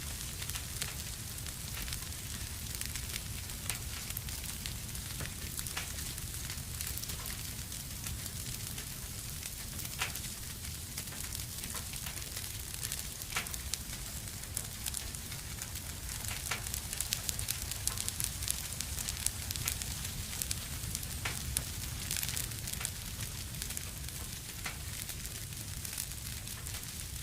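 Wood fire in a fireplace, crackling and hissing with a steady low rumble and frequent sharp pops, which come thicker about two-thirds of the way through.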